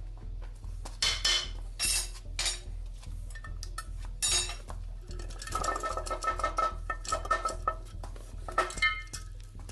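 Metal engine parts and tools clinking and clattering as they are handled, with scattered knocks at first and a quick run of ringing metallic clinks in the second half.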